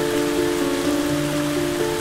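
Steady rain with slow, calm instrumental music of long held notes over it.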